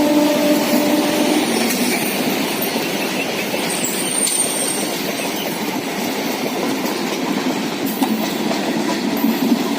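An Indian Railways EMU passenger train passing: its horn sounds out to about a second in, then the steady rumble and clickety-clack of the coaches running over the track, with a brief high wheel squeal about four seconds in.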